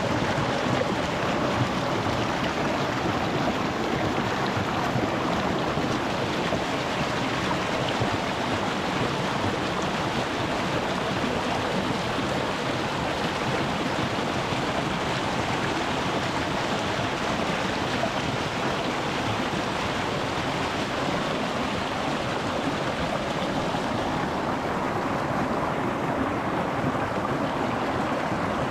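Shallow rocky stream flowing and splashing over stones, recorded close to the water: a steady, even rush.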